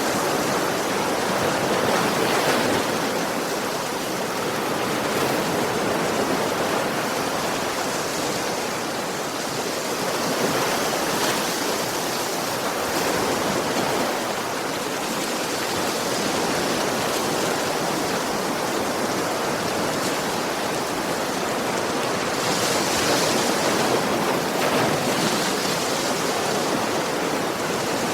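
Sea waves washing onto a beach: a continuous rushing surf that swells and eases gently over several seconds, with a brighter, hissier surge a little past two-thirds of the way in.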